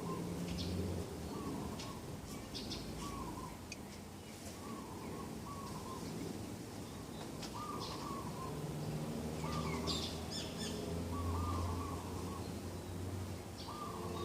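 Birds calling in morning ambience: a short, arched call repeats every second or two, with higher, quicker chirps scattered over it. A low hum comes and goes underneath.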